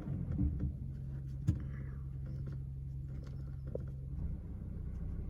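Heavy diesel engine idling with a steady low hum, a few light knocks on top.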